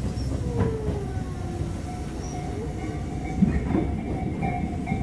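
Cabin running noise of a Tobu 8000 series electric train between stations: a steady low rumble of wheels on rail with a constant hum. A brief falling tone comes about half a second in, and a louder knock a little past three seconds.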